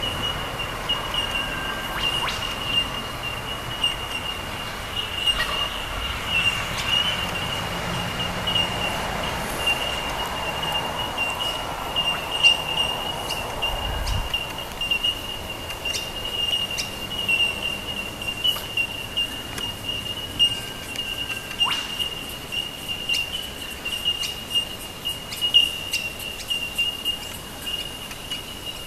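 Outdoor bird ambience: scattered short bird chirps and calls over a steady high-pitched drone.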